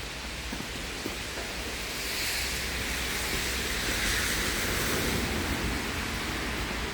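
A vehicle passes on a snowy street, its tyres hissing. The sound swells from about two seconds in, peaks around four to five seconds and fades near the end.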